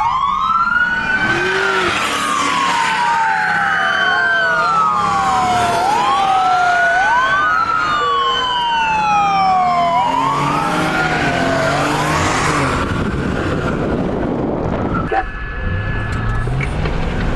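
Several police car sirens wailing at once, their rising and falling sweeps out of step, over the noise of passing vehicles. The sirens fade out about two-thirds of the way through, leaving engine and road noise.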